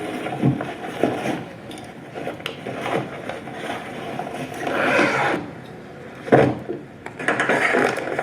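Irregular knocks, scrapes and rustles of objects being handled in a small room, with a sharp knock about two-thirds of the way through.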